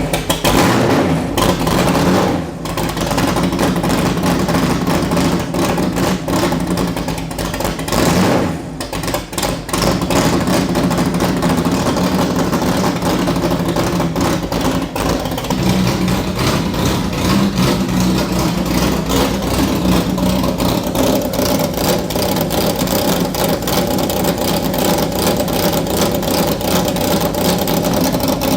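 Roush 427 V8 of a Superformance GT40 running just after a cold start, held on light throttle because it would not idle on its own. The engine note dips briefly twice in the first ten seconds, then runs steadily.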